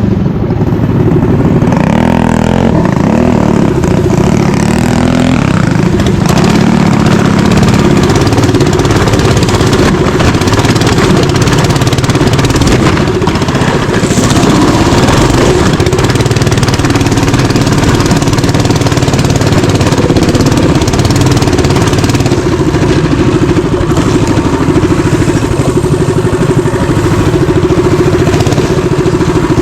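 Mini bike engine running while riding, its pitch rising and falling as the throttle changes.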